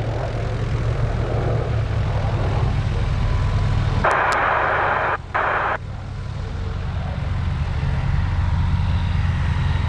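Pottier P.170S light aircraft's propeller engine droning steadily, with a burst of radio hiss lasting nearly two seconds about four seconds in.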